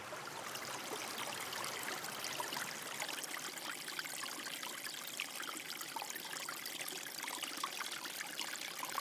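Running water trickling steadily, an even splashing hiss with many small droplet ticks.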